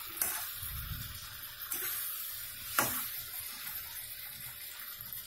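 Chicken and potato pieces sizzling in oil in a metal kadai as they are fried together, with a few clicks of the stirring spatula against the pan, the sharpest near three seconds in.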